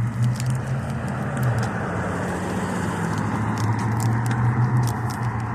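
A car driving past close by: a steady engine hum with tyre and road noise that swells and then fades near the end.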